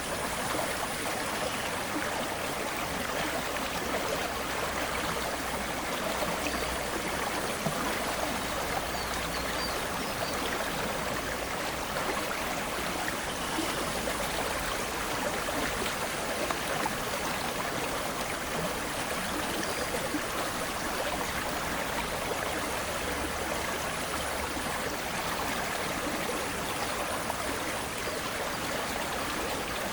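Aare river water flowing steadily, an even, unbroken rushing sound.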